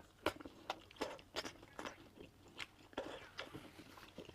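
Close-miked eating sounds: a person biting and chewing pan-fried glutinous rice cake coated in brown sugar, with irregular sticky mouth clicks several times a second.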